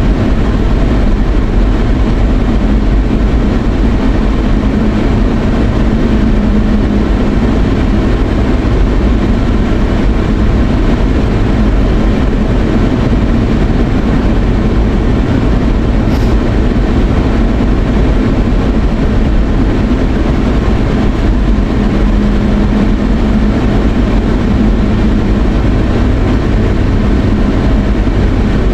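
Steady road and engine noise of a moving car heard from inside the cabin: an even low rumble with a steady hum, unchanging throughout.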